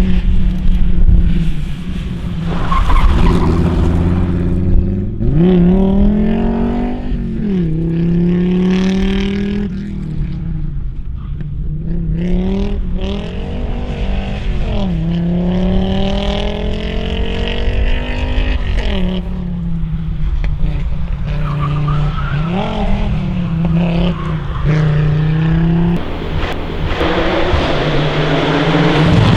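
Rally car engines revved hard, the pitch climbing and dropping back repeatedly through gear changes, with some tyre squeal or skidding.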